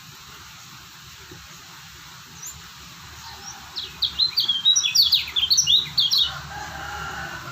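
Kecial kuning white-eye singing: a rapid run of sharp, high, down-sweeping chirps for about two and a half seconds, starting about halfway in, then a fainter, lower twitter.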